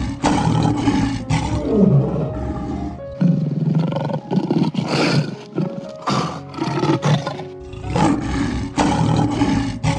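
Lion roaring, a run of repeated deep roars and grunts, with a light background music tune underneath.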